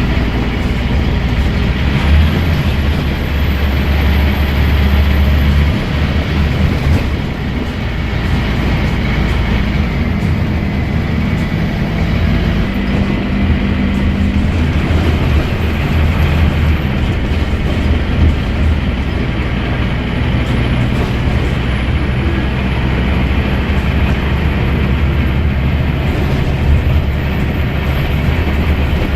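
Scania N230UD double-decker bus's five-cylinder diesel engine and ZF Ecomat automatic gearbox heard on board while driving, the engine working hard. The engine note changes about six seconds in, and a thin high gearbox whine rises and falls twice, then holds steady near the end.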